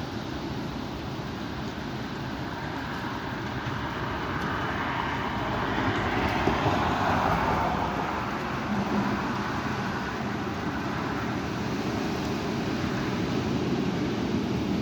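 Strong wind blowing, rising in a gust about five seconds in and easing again a few seconds later.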